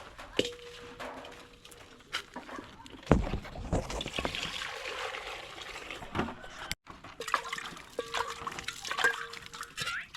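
Water sloshing and pouring, with irregular knocks and clatter.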